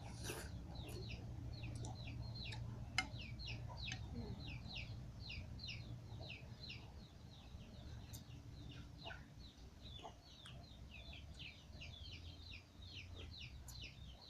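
Chicks cheeping continuously, many short high peeps falling in pitch and overlapping several to the second, over a steady low hum.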